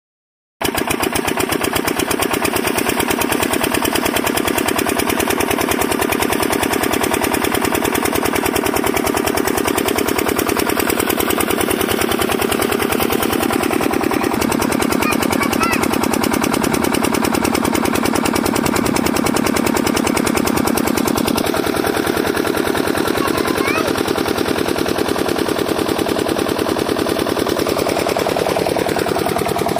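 Miniature model diesel water-pump engine running with a steady, rapid chugging that starts abruptly about half a second in.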